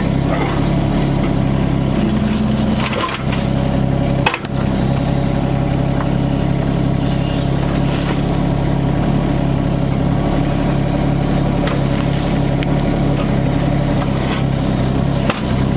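Yanmar ViO25 mini excavator's diesel engine running steadily under work, with scattered clicks and a sharp knock about four seconds in as the machine digs at a rock.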